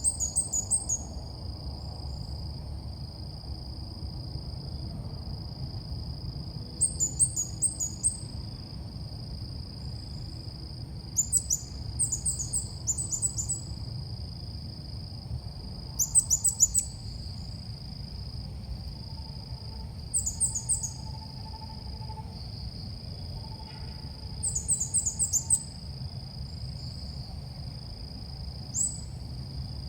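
Bird calls of the 'ốc mít' used as a trapping lure: short bursts of quick, very high chirps, repeated every few seconds over a steady high-pitched hiss.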